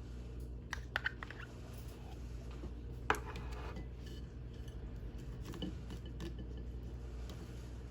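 A few sharp clicks and taps from food preparation, likely utensils or packaging being handled, with the loudest click about three seconds in, over a steady low hum.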